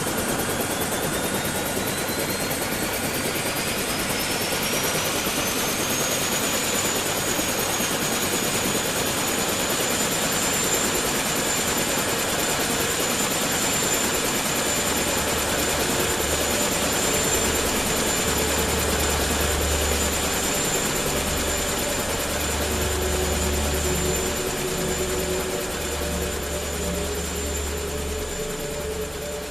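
Quadcopter drone's propellers and motors whining and hissing steadily. The whine rises in pitch over the first several seconds, then holds level. A low pulsing hum joins about halfway through.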